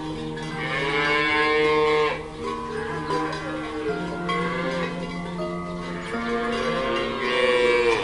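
Cattle mooing: one long, loud moo about half a second in and another near the end, with softer lowing between, over background music.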